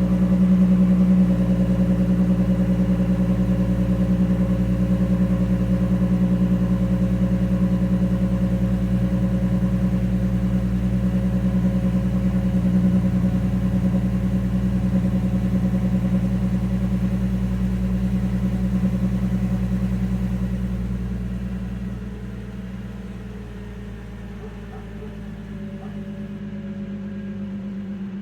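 2022 VW Atlas Cross Sport's 3.6 VR6 engine idling high just after a cold start, through an exhaust with the resonator deleted. About 21 seconds in the idle drops and the engine gets quieter as the fast idle settles.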